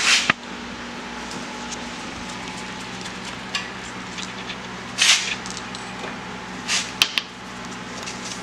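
Short rustles and a few sharp clicks from handling a plastic oil bottle and the engine's oil filler cap while topping up the oil, over a steady low hum.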